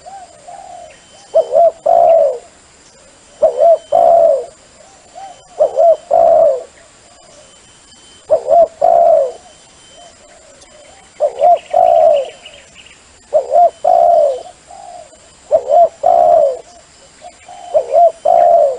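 A dove cooing over and over, each phrase a couple of short notes and then a longer rolling coo, repeated about every two seconds. This is a dove call of the kind played to lure wild doves. Faint chirps of another bird come in briefly near the middle.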